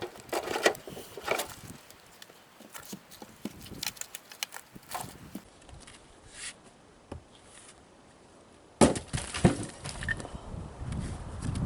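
Irregular knocks, cracks and crunches of firewood being handled and carried, with a louder clatter of wood striking wood about nine seconds in.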